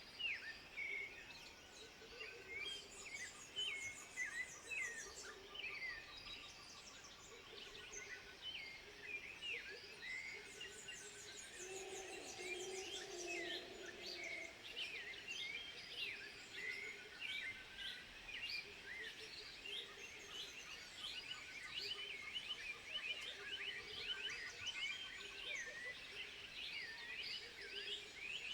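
A dense chorus of many short, high chirps and twittering calls, overlapping without pause. A lower, held call sounds briefly about halfway through.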